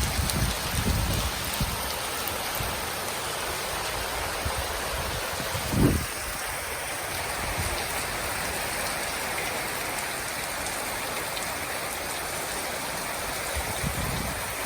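Rain falling steadily, a continuous even hiss. A brief low thump about six seconds in, with a few smaller low bumps near the start.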